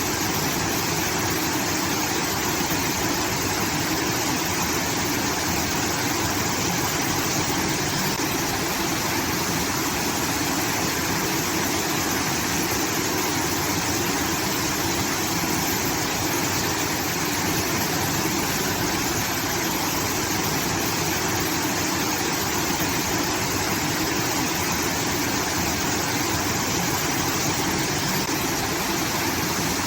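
Water from a rice-field irrigation outlet pouring and rushing steadily, like a small waterfall.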